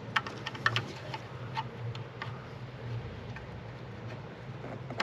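Irregular sharp plastic clicks and taps as electrical connector plugs on a car's EGR valve are worked at by hand to release them, over a steady low hum.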